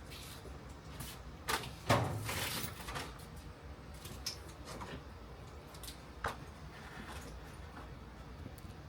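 A few scattered knocks and clatters, as of things being handled or set down. The loudest comes about two seconds in, followed by a short scraping rustle, with smaller knocks around four and six seconds in.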